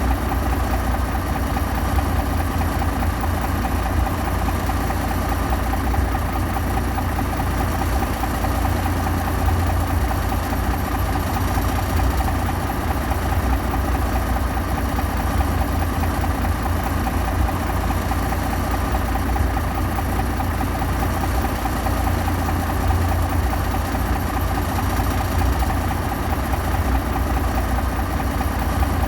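Heavy machine's diesel engine running steadily with a low, pulsing rumble that holds even throughout.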